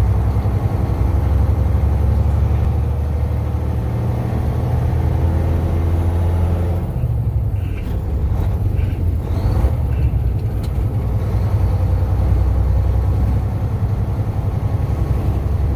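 Truck engine running steadily under way with a heavy low rumble; about seven seconds in its note drops and changes, then settles into a steady run again.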